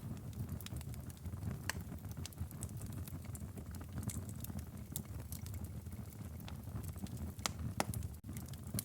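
Wood fire crackling in a fireplace: irregular sharp pops and snaps over a steady low rumble of the flames, with a momentary drop in the sound near the end.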